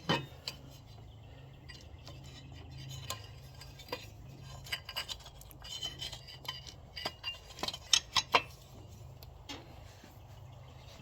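Light metallic clicks and clinks of parts and tools being handled in a car's engine bay, with a quick run of sharper clicks near the end, over a low steady hum.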